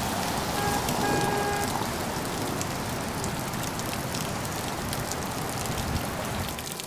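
Steady rain falling on pavement and an umbrella, a dense patter of drops. About a second in, a brief pitched tone sounds twice.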